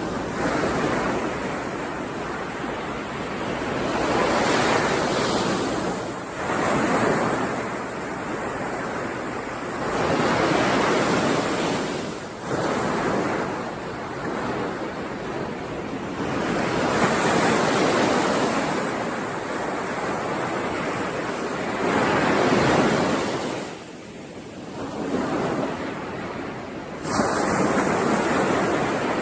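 Sea waves washing onto a shore: surges of noise swell and fade every few seconds, and one wave breaks sharply near the end.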